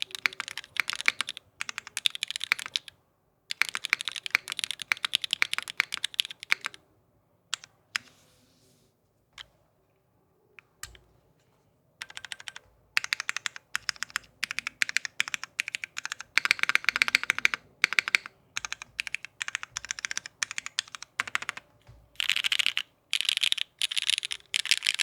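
Alchemy AL.6 mechanical keyboard being typed on: vintage Cherry MX Black linear switches on an O-ring-mounted aluminium plate, with GMK keycaps, clacking in fast runs of keystrokes. A few seconds near the middle hold only a few single keystrokes before steady typing resumes.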